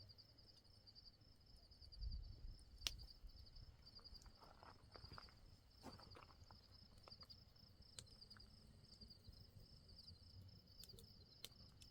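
Faint, steady pulsing chirps of night insects such as crickets, with a low rumble about two seconds in and a few scattered clicks.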